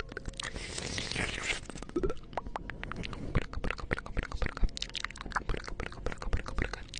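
Close-miked ASMR mouth sounds into a 3Dio binaural microphone: wet tongue and lip clicks coming rapidly and unevenly, with a breathy hiss about a second in.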